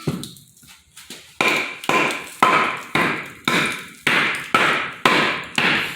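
Hatchet blows splitting a log of firewood: about ten sharp chopping strikes, roughly two a second, each with a brief ring.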